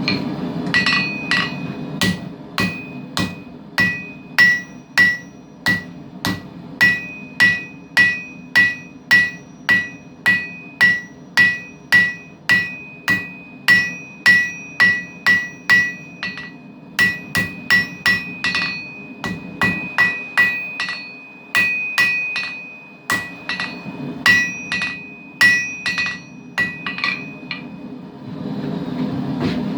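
Hand hammer forging hot high-carbon steel on an anvil: about two blows a second, each with a bright metallic ring, in runs broken by short pauses, stopping near the end. A steady forge roar runs underneath.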